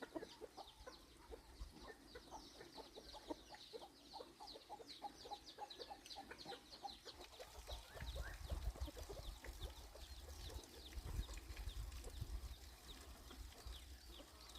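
Chickens clucking and cheeping in a fast, dense stream of short, falling high notes. A low rumble joins about eight seconds in.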